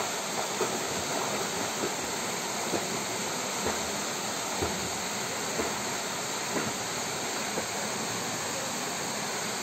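Waterfall rushing steadily, with faint sharp taps about once a second.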